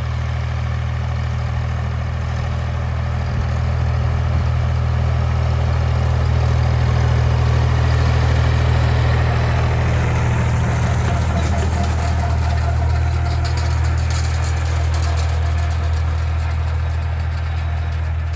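Tractor engine running steadily at a constant speed, growing a little louder about four seconds in.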